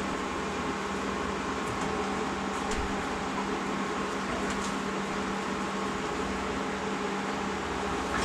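Steady hum and hiss of a running motor, with a constant low tone throughout.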